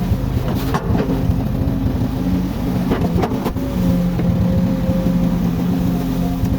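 Komatsu hydraulic excavator's diesel engine running steadily under work, its note shifting a little, with a few short knocks about a second in and around three seconds in.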